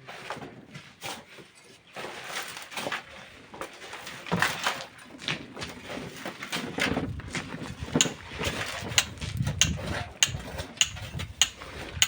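Metal hand tools striking rock and sand: a string of sharp, clinking knocks that comes faster and more evenly, about two a second, in the second half.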